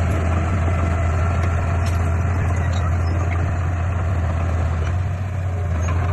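Heavy earthmoving machine's diesel engine running steadily with a strong, even low drone.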